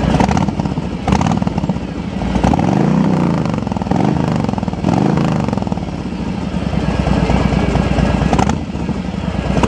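Harley-Davidson Milwaukee-Eight V-twin revving through a Vance & Hines exhaust with modified baffles and stock cams. There are quick throttle blips at the start, then three rising-and-falling revs in the middle, after which it settles to a lumpy idle.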